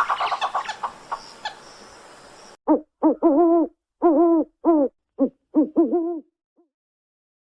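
An owl hooting: a run of about eight short hoots in an uneven, quick series, each wavering slightly in pitch. Before the hoots, a rough noisy burst fades away over about two seconds.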